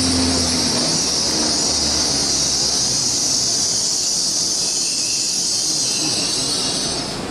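A train running past on the tracks, with a loud, high-pitched hiss of wheel and rail noise that fades near the end. A low engine hum is heard only in the first second.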